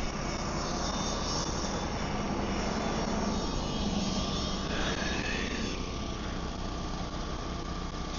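A steady engine drone, with a brief higher whine that rises and falls about five seconds in.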